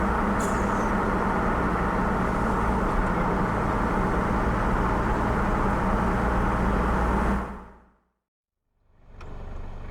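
Steady car engine and road noise of a vehicle driving. It fades out about seven and a half seconds in to a second of silence, then fades back in more quietly.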